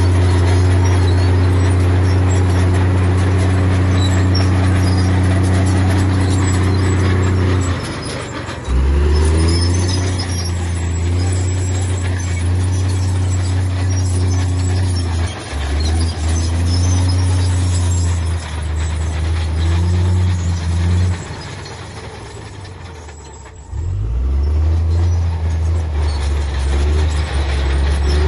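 Heavy diesel engine of earthmoving machinery running hard under load, easing off and picking up again several times, with a longer lull about three-quarters of the way through before it revs back up.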